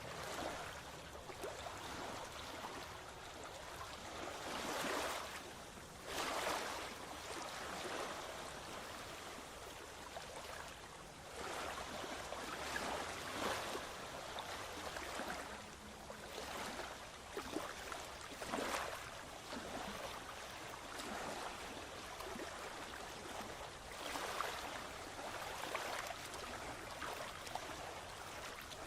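Small waves washing and lapping on a beach, rising and falling in irregular swells every few seconds.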